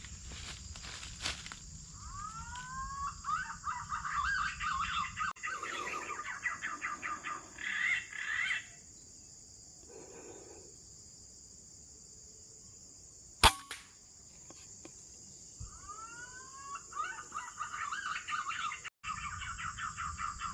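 Insects buzzing steadily in a high, even drone while a bird sings rapid phrases of rising whistled notes, twice. About thirteen seconds in comes a single sharp crack, the loudest sound.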